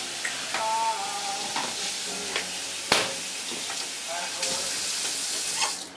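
Food sizzling in a hot frying pan while it is stirred, with utensils clicking against the pan and one sharp knock about halfway through.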